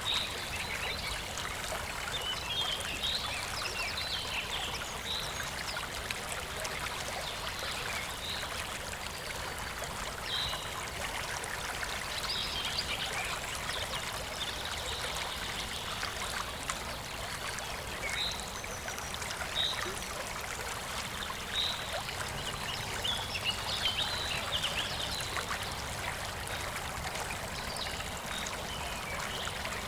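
River water flowing steadily with a trickling babble, and brief higher gurgles every few seconds.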